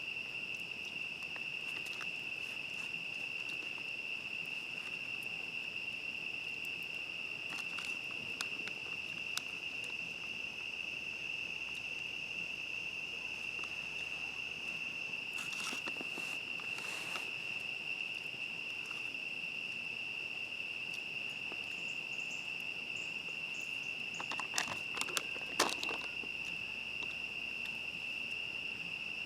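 Crickets trilling in a steady, unbroken high chorus. Scattered clicks and a few short clusters of crackles cut across it, the loudest about 25 seconds in.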